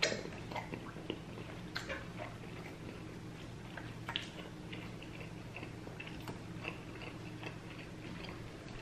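Quiet chewing while eating burgers and fries: scattered small wet clicks and smacks from the mouth, over a steady low hum.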